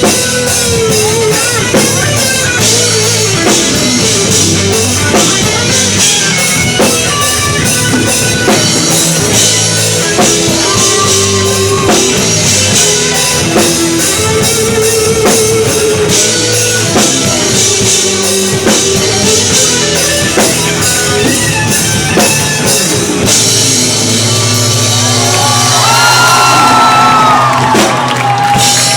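Live rock band playing: drum kit, guitar and a singer, loud throughout and swelling louder near the end.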